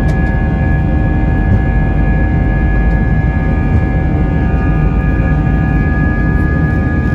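Airbus A320neo's jet engines at high thrust during takeoff, heard inside the cabin: a steady deep rumble with several steady whining tones held at an even pitch.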